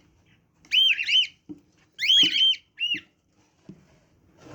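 A bird calling in short, high, arching chirps that come singly or in quick pairs about a second apart.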